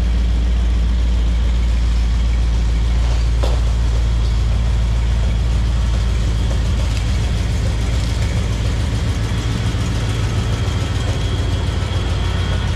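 1973 Cadillac Eldorado's 500 cubic-inch big-block V8 idling steadily with a deep, even exhaust note.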